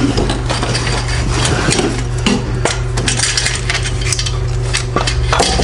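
Stainless steel exhaust downpipe pieces clinking and clanking against metal as they are handled and fitted up, a quick irregular run of light knocks.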